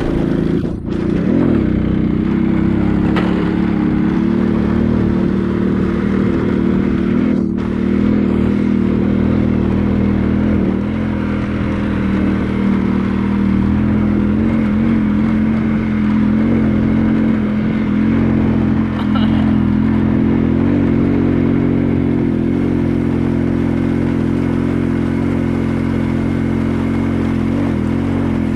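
A small engine running steadily at an even, constant speed.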